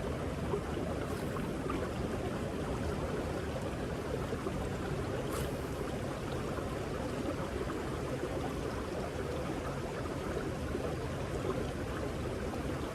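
Steady rush of running water from a small waterfall, with one faint click about five seconds in.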